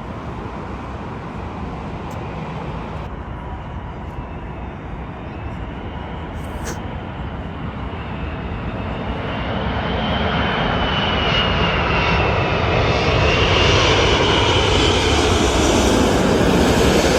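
Jet airliner's engines getting steadily louder as it comes close, with a high whine that wavers in pitch over a deep rumble, and a deeper sound sliding down in pitch near the end as it passes.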